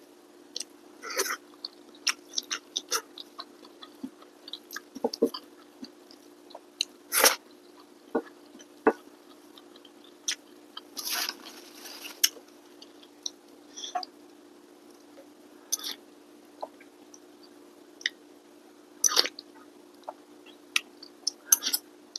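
A person chewing and biting food close to the microphone: scattered wet mouth clicks and small crunches over a steady low hum. About eleven seconds in there is a longer rustle, as of a paper napkin being handled.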